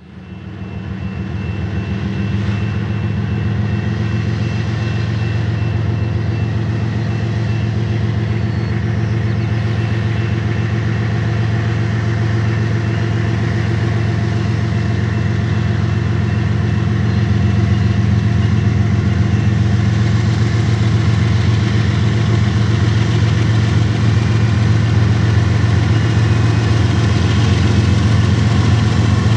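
CPKC diesel locomotive engines running with a steady low drone. The sound fades in over the first couple of seconds and then grows slowly louder.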